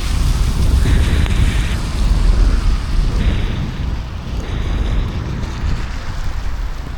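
Wind buffeting the microphone outdoors in a thunderstorm: a steady low rumbling noise, with two brief bursts of hiss about one and three seconds in.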